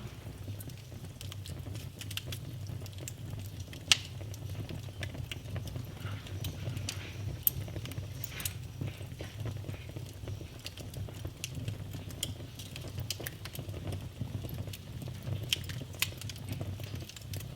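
Wood fire burning in a fireplace: irregular crackles and pops over a steady low rumble, with a sharp pop about four seconds in and another near the middle.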